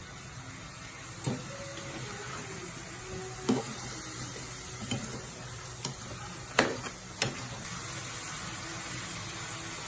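Kitchen utensils and cookware clinking and knocking about six times, with the loudest knock past the middle, over a steady background hiss.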